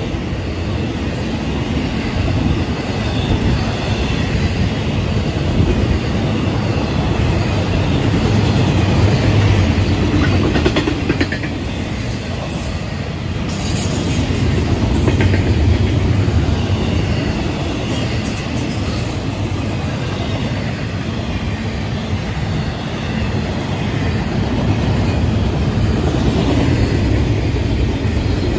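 Intermodal freight cars rolling past close by: a steady rumble and clatter of steel wheels on rail that swells and eases, with a faint high wheel squeal at times.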